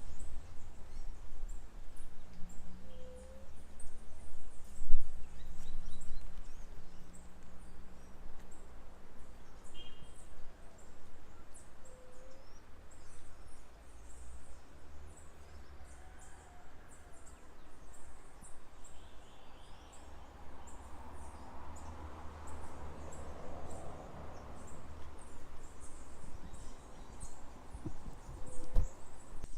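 Breeze blowing over the microphone, swelling in a rush of wind about two-thirds of the way through. A bird gives a short call every several seconds, over a constant high chirping of insects and birds. A single thump comes about five seconds in.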